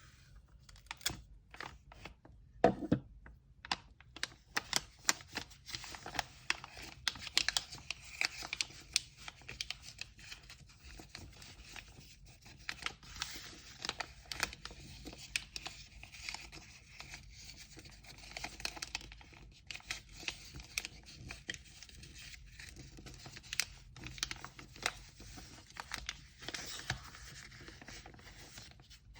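Order packing by hand with kraft paper and tape: paper rustling and crinkling, tape being torn, and many small taps and clicks. One heavier knock comes about three seconds in.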